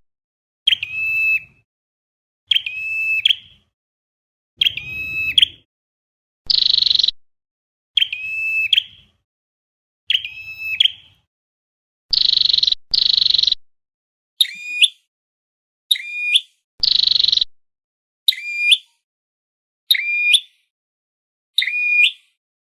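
Recorded flowerpecker calls (chim sâu đầu đỏ) played in a loop as a trapping lure. Short calls come about every second and a half, mixing a harsh buzzy call with a ringing note that drops and then holds.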